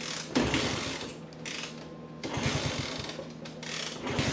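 1964 Honda C200's pushrod single-cylinder engine being kicked over three times, each kick a second-long burst of fast mechanical clatter. It turns over but never fires, still not starting with the choke on after the carburettor cleaning.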